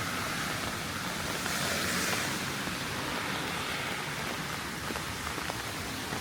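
Heavy rain falling on a city street: a steady hiss, swelling briefly about two seconds in.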